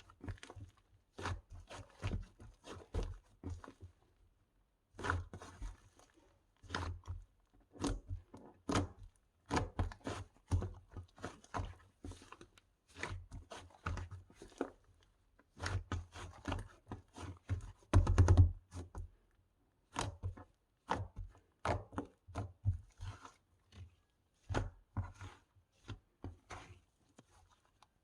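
Hands squishing and pressing mixed slime, making quick clusters of clicky, crackling pops with short pauses between them and one louder burst about two-thirds of the way through.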